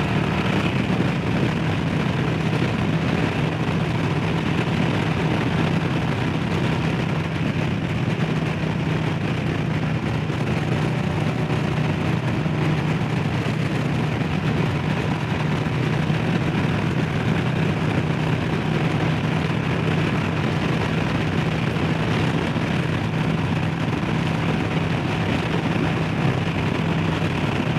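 Harley-Davidson Low Rider S's Milwaukee-Eight V-twin engine running at a steady cruise, with a constant low engine note under road and wind noise.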